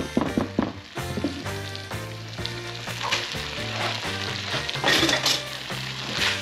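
Rice frying and sizzling in a nonstick pan while a silicone spatula stirs and scrapes it, with a few sharp scraping strokes in the first second. Black beans are tipped in partway through, and the sizzling is loudest about five seconds in.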